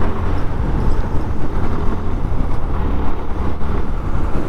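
Suzuki Gixxer FI ABS motorcycle's single-cylinder engine running steadily on the move, with road and traffic noise.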